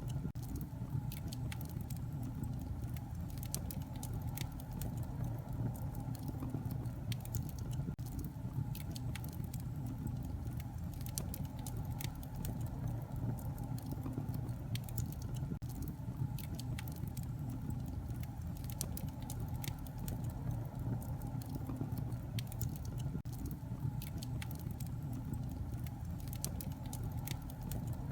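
Wood fire crackling in a fireplace, with frequent small sharp pops over a steady low rumble of the flames.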